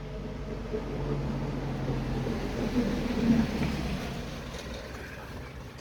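A motor vehicle passing: a low engine rumble that swells about halfway through and then fades away.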